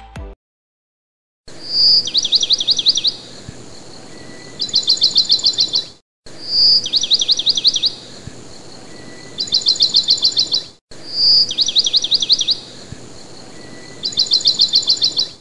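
A songbird's song, the same phrase repeated three times with abrupt cuts between: a short clear whistled note, then a run of rapid, falling chirps, a brief pause and a second, faster run of chirps, over faint background hiss.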